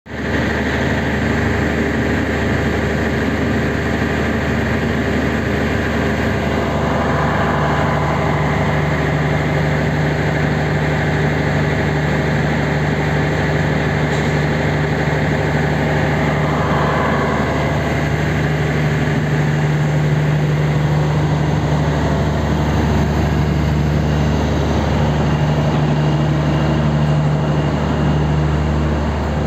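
Strizh express train standing at the platform, its electric locomotive and carriages giving off a loud, steady mechanical hum with a low, even drone.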